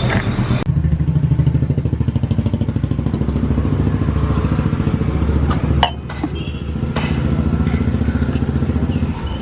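Royal Enfield Bullet's single-cylinder engine running with a fast, even exhaust beat, dipping briefly a little past the middle. A couple of sharp clicks come at about the same point.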